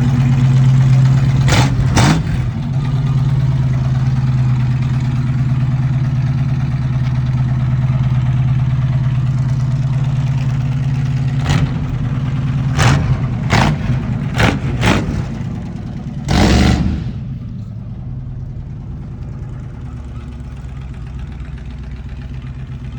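Engine of a 1936 Chevrolet tow truck running steadily, broken by short sharp cracks: two near the start and a cluster past the middle, the last one longer. After that it runs on more quietly.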